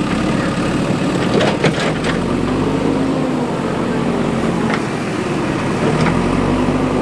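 Diesel engine of a JCB 3DX backhoe loader running steadily, with a few short clanks scattered through.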